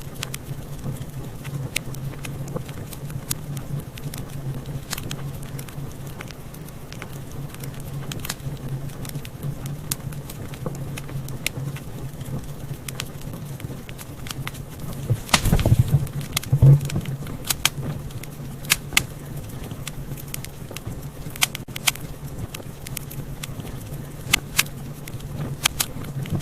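Wood fire crackling in a fireplace: scattered sharp pops and snaps over a steady low hum, with a louder flurry of pops about two-thirds of the way through.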